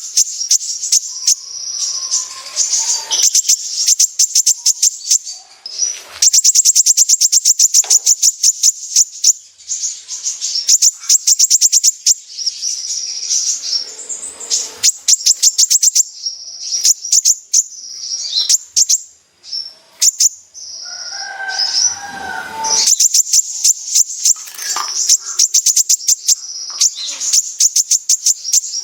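Kolibri ninja sunbird singing a rapid, high-pitched chattering song in repeated bursts of quick notes: the full 'besetan' delivery that bird-keepers use as a trigger song.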